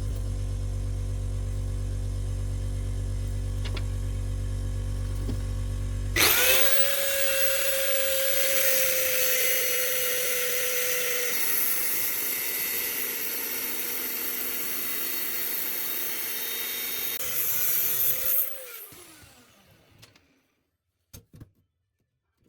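A steady low electrical hum, then about six seconds in an electric power tool starts abruptly and runs at speed with a high whine and hiss for about twelve seconds. It is then switched off and spins down, its pitch falling.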